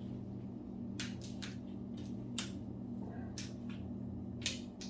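Steel wrench sockets clinking as they are tried on the cylinder head bolts of an LS V8 to find their size: several sharp metallic clicks at irregular intervals, the loudest near the end, over a steady low hum.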